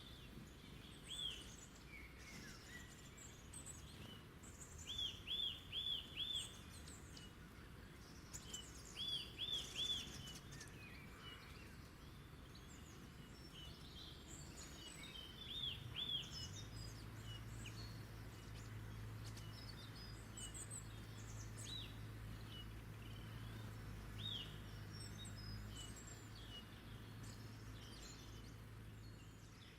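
Wild birds singing, one repeating a short phrase of three or four quick arched whistled notes several times, with thinner higher chirps from others. From about halfway a low steady hum joins in underneath.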